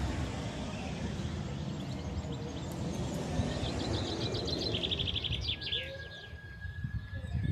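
Birds chirping: a quick run of high, rapid chirps a few seconds in, then a long steady whistled note near the end, over a constant low rumble.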